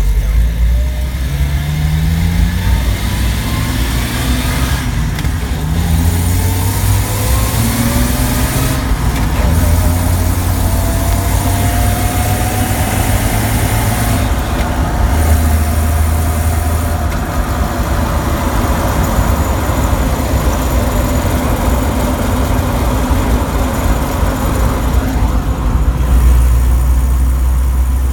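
1993 Jeep Wrangler YJ's 4.0 L inline-six and AX-15 drivetrain driving, with a loud low rumble; its pitch rises several times over the first ten seconds as it accelerates, then runs steadily.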